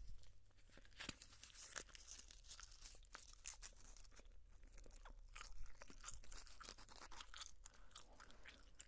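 Close-miked gum chewing: an irregular run of small, quick clicks and crackles from the mouth working a piece of gum.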